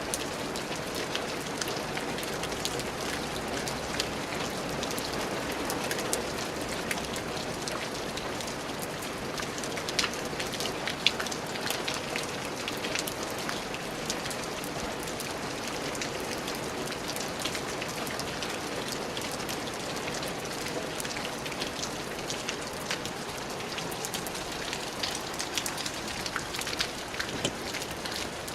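Steady rain falling on a surface, a continuous hiss dotted with many individual drop ticks.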